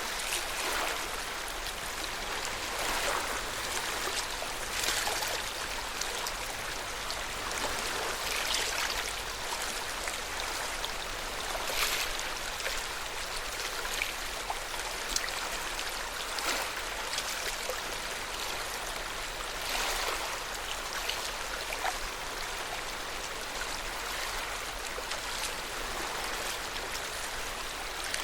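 Lake water lapping at the shore: a steady wash with frequent small, irregular splashes.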